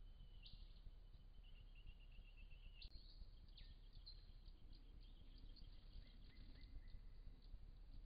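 Faint, high-pitched calls of small birds: thin whistled notes and a quick run of rapid chirps, then scattered short high chirps after about three seconds, over steady low background noise.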